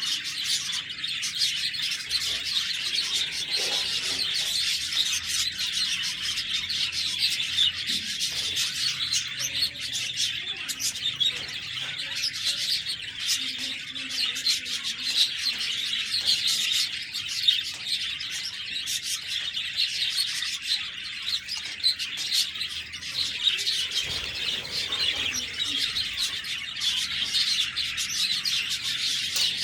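A flock of budgerigars chirping and chattering continuously, with many overlapping high, quick chirps and no pauses.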